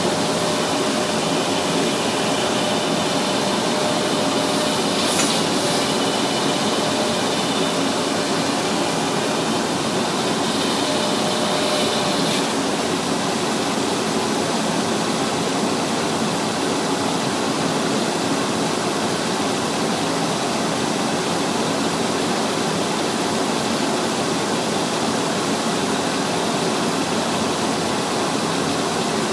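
Propeller sanding machine running, a loud, steady grinding noise. A faint whine over it stops about twelve seconds in.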